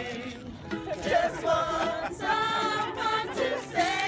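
Music with singing: sung notes held and gliding in pitch.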